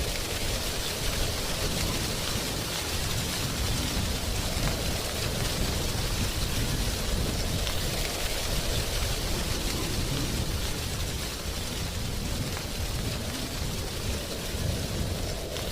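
Wind blowing through a tree's drying leaves: a steady rustling hiss over a low wind rumble, swelling and easing gently.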